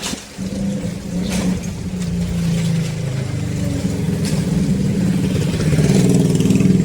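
A motor vehicle's engine running close by, its hum growing steadily louder as it approaches, with a few sharp clicks along the way.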